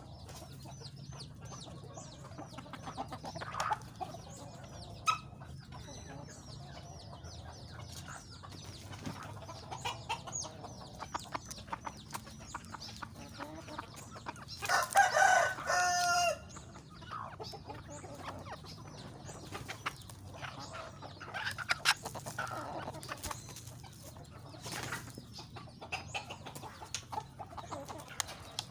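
Chickens clucking, with a rooster crowing once about halfway through, the loudest call. Rapid high chirps in the first few seconds.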